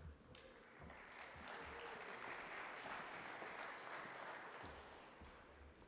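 Audience applauding, faint; it builds over the first second or two, then fades away toward the end.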